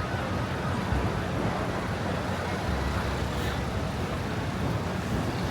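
Steady city street traffic noise: passing cars and their tyres on a wet, snow-covered road, with a constant low rumble.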